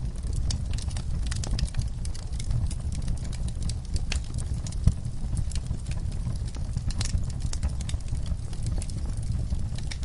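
Wood fire burning in a fireplace: a steady low rumble of flame with frequent irregular crackles and one louder pop about five seconds in.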